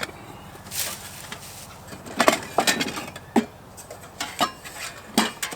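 Metal camp cookware (tin cup, coffee pot and skillets) being handled, giving a handful of short clinks and knocks spread out over a few seconds.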